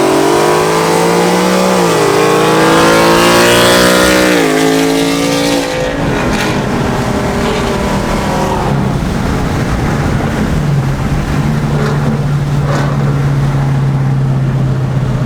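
2019 Mustang GT's 5.0 V8 through a Flowmaster Outlaw catback with an H-pipe, accelerating hard. The pitch climbs and drops sharply twice, at about two and four and a half seconds, as it shifts up. It then settles into a steady drone at cruise.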